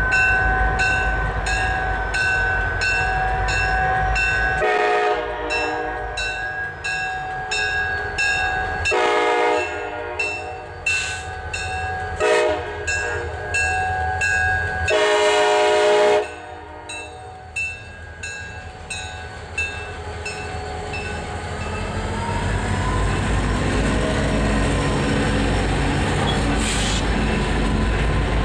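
Diesel locomotive horn sounding the grade-crossing signal, long, long, short, long, over a crossing bell ringing about twice a second; the bell fades out after the last blast. Then the engine rumble of the two GP35-3 locomotives builds as the train draws nearer.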